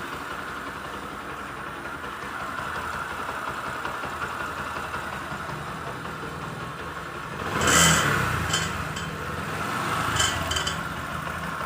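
Bajaj Discover 100's single-cylinder four-stroke engine idling, then revved sharply about eight seconds in and more gently near ten seconds. Opening the throttle brings out a noise from the silencer, which the mechanic traces to an internal pipe that has come loose inside the muffler.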